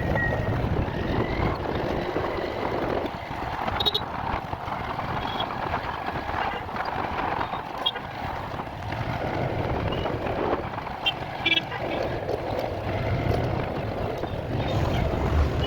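Steady engine and road noise of a motorcycle being ridden, with wind rumbling on the microphone and a few brief high beeps along the way.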